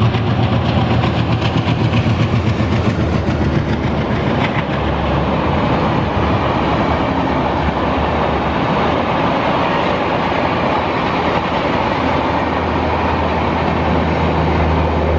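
Diesel-hauled train passing at speed, wheels clattering rapidly over rail joints for the first few seconds, then a steady rushing rumble with a low hum underneath.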